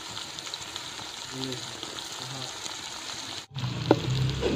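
Chopped onions and green chillies frying in ghee in an aluminium pot, a steady sizzle. About three and a half seconds in, after a brief cut, it is louder, with a few sharp clicks of a spoon against the pot as the browned onions are stirred.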